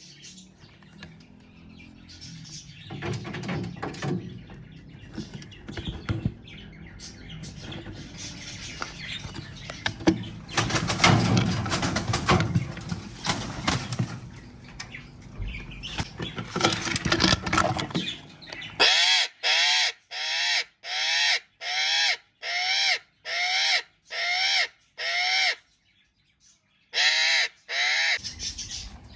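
Aviary birds calling over one another. Near the end one bird gives a run of about ten loud, harsh calls, a little over one a second, then pauses briefly and gives two more.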